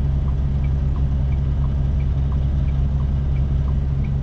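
Semi truck's diesel engine running with a steady low hum, heard from inside the cab, with the turn-signal flasher ticking steadily, alternating higher and lower clicks about three times a second.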